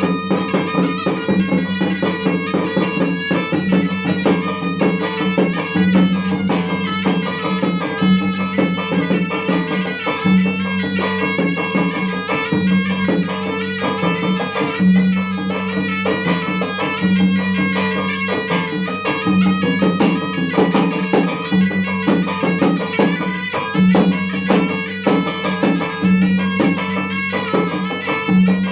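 Bugis gendang drums from Maros playing a fast pencak accompaniment, with a reedy wind instrument carrying a continuous melody over them. A strong low tone stops and restarts every second or two.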